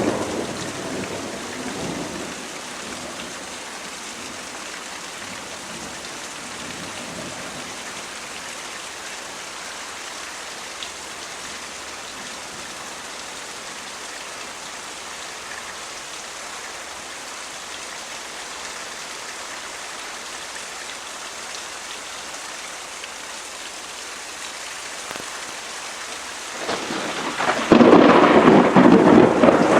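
Thunderstorm: steady rain falling, with a thunderclap's rumble fading in the first couple of seconds and a loud thunder crash breaking out near the end.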